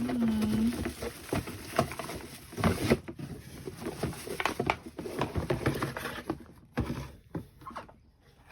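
Irregular knocks, clicks and rustling of objects being handled, many short taps at uneven intervals.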